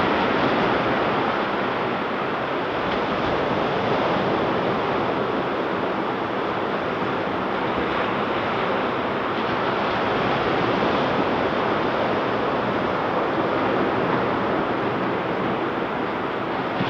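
Ocean surf breaking and washing on the beach, a steady wash of noise with slow gentle swells in loudness, some wind on the microphone mixed in.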